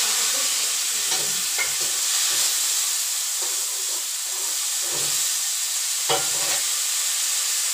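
Chopped tomatoes sizzling steadily in hot oil with cumin and green chilli in a steel kadhai, just after being tipped in, with a few brief knocks from the pan.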